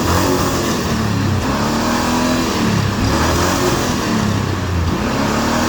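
Chevy Tahoe engine revving up and falling back several times in a row, its pitch rising and dropping in repeated swells.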